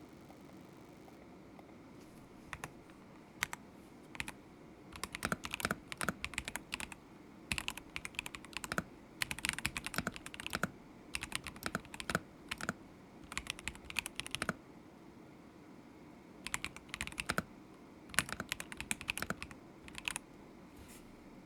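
Typing on a stock KZZI K75 Pro mechanical keyboard with Moment linear switches. A few single key presses come first, then quick runs of keystrokes with short pauses between them, and a lone keystroke near the end.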